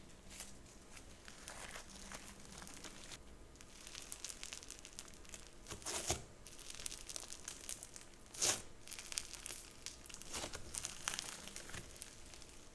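Crunchy slime being squeezed and pressed by hand: an irregular run of crackling, crinkly crunches, with two louder crunches near the middle.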